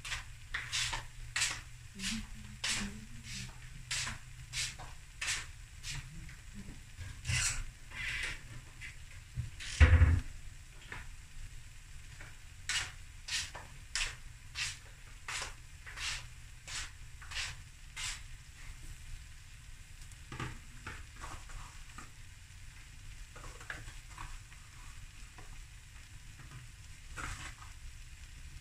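Boerewors and jalapeño fried rice frying in a black steel pan with a faint sizzle. Sharp ticks come about every two-thirds of a second and thin out in the second half, and one heavy thump lands about ten seconds in.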